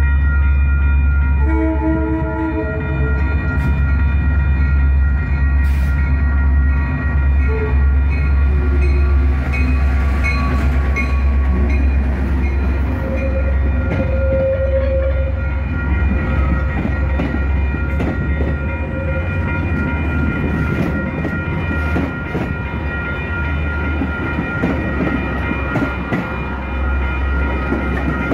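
Metra commuter train with diesel locomotive 405 passing at close range: a short horn blast about a second and a half in, then a heavy engine rumble and the bilevel cars' wheels clattering over the rails as they roll by. Steady high ringing, typical of the crossing bells, runs underneath.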